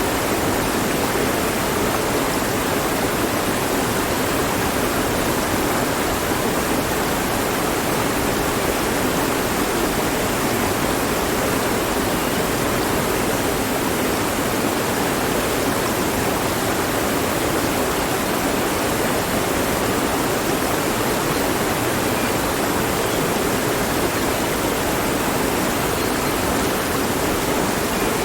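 Mountain stream flowing over rocks: a steady, even rush of water with no change.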